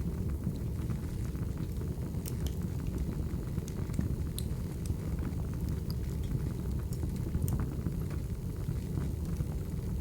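Wood fire burning: a steady low rumble of flames with scattered sharp crackles and pops of burning firewood.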